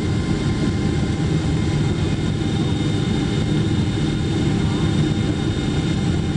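Steady cabin noise inside a Boeing 777-300ER airliner on approach to land: a deep, even rumble from the GE90 engines and airflow, with faint steady whining tones above it.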